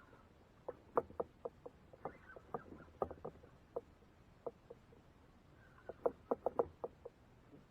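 Water lapping against a plastic fishing kayak's hull: irregular light, hollow taps, bunched into quick clusters about a second in, around the middle and near the end.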